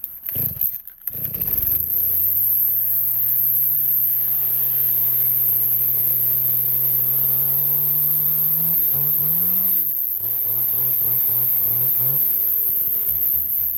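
Chainsaw engine catching and running, its pitch climbing slowly at first and then rising and falling rapidly as the engine speed changes. A few short knocks come just before it catches.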